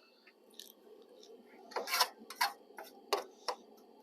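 Cooking utensils clicking and knocking: about five sharp clicks over a faint steady hiss, most of them in the second half.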